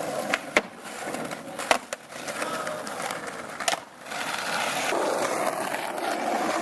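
Skateboard wheels rolling over pavement, with a few sharp clacks of the board, three in the first four seconds; the rolling gets louder from about four seconds in.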